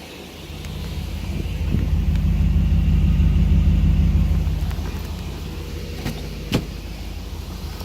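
BMW E38 740iL's V8 engine running with its vacuum leak fixed: the rumble swells about half a second in, holds higher for a few seconds, then settles to a lower, steady idle. A sharp click sounds once near the end.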